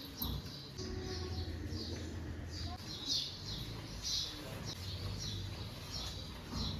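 Birds chirping: a steady run of short, high, falling chirps, about two a second, over a low steady hum.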